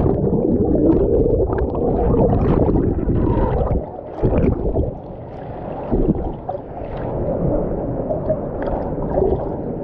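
River water sloshing and gurgling close to the microphone, muffled, with scattered knocks, as a person moves through the water.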